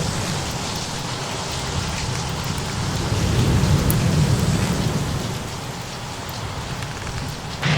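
Steady rain with a low roll of thunder that swells about three seconds in and eases off, faint fire crackles, and a sudden louder surge right at the end.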